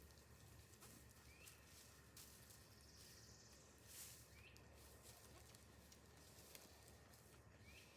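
Near silence: a faint background with scattered small ticks, a short faint chirp about every two and a half seconds, and a soft swell of hiss about halfway through.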